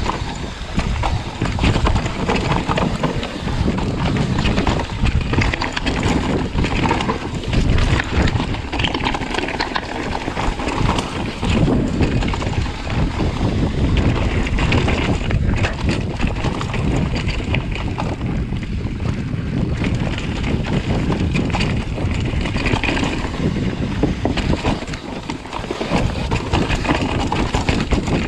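Downhill mountain bike ridden fast over rough trail: continuous clattering and rattling of the bike over rocks and roots, with wind on the microphone.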